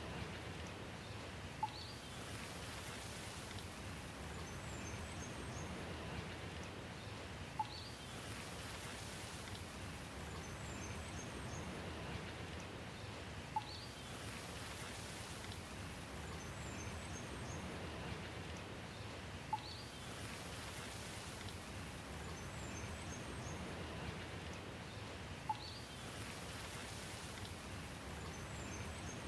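Steady rain hiss, with a sharp tick and a few faint high chirps repeating about every six seconds, the mark of a looped recording.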